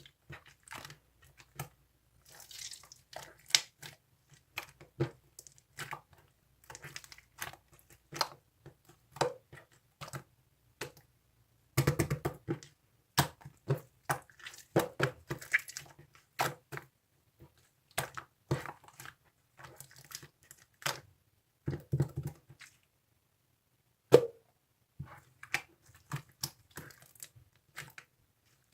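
Slime being squished, poked and folded by hand, giving irregular sticky clicks and small air-bubble pops, with a denser run of pops about twelve seconds in and one sharp loud pop a little after the middle.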